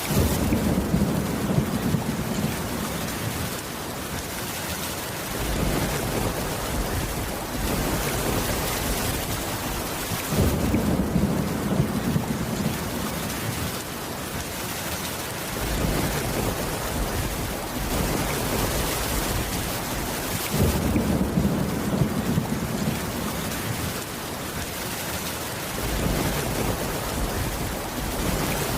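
Steady rain with thunder rumbling low three times, each rumble about five seconds long and starting about ten seconds after the last.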